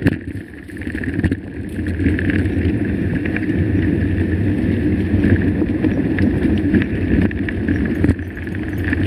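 Mountain bike rolling over a rough dirt trail: steady tyre rumble and rattling from the bike, with a few sharp knocks.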